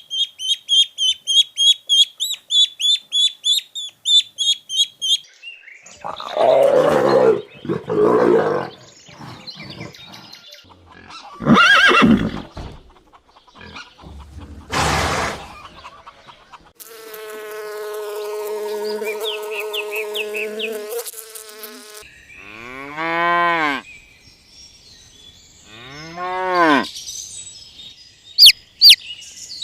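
A string of different animal calls one after another: rapid high chirping for the first few seconds, then several loud short calls, a long steady call, and two rising-and-falling calls near the end, among them cattle mooing.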